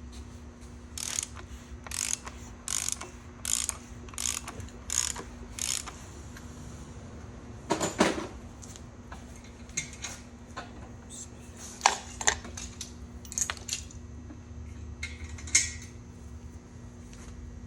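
Ratchet wrench clicking in strokes as a Jaguar 5.0-litre V8 is turned over by hand on its crankshaft, checking that the engine rotates correctly on new rod bearings. The clicks come evenly, about one every 0.7 seconds, for the first six seconds, then irregularly.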